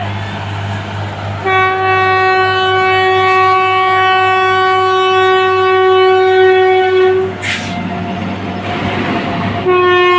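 Railway horn sounding a long steady blast of about six seconds, starting a second and a half in, then a second blast starting near the end, over a steady low engine drone with a rushing noise between the blasts.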